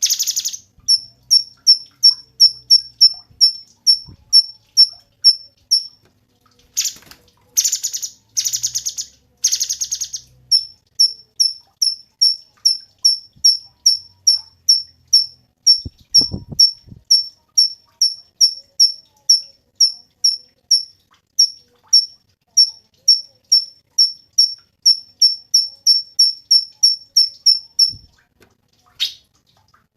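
Cucak cungkok bird calling in a fast run of short, high, evenly spaced notes, about three to four a second, broken by a few longer chattering bursts.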